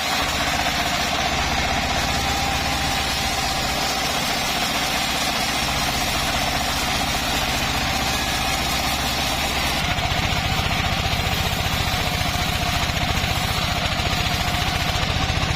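A homemade engine-driven bandsaw mill running steadily, with a low drone and a steady whine. Its low drone grows stronger about ten seconds in.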